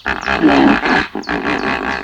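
A large animal's loud, rough call, repeated in several pulses with short breaks between them.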